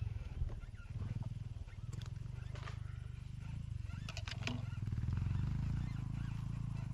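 Trail motorcycle engine running at low revs, a steady pulsing rumble, with a few short clicks and rattles about two seconds in and again near the middle.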